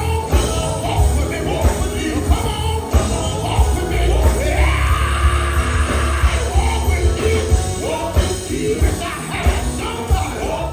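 Live gospel band music with heavy bass and steady drum hits, and a voice singing and shouting over it, holding a long rising note about four seconds in.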